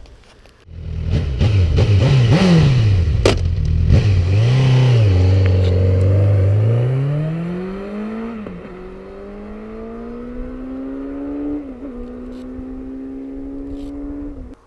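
Honda CB1000R's inline-four engine through a Yoshimura R-77 exhaust. It comes in suddenly and is revved in quick blips, then settles. It then pulls away, rising in pitch and growing fainter, with two brief drops in pitch as it shifts up.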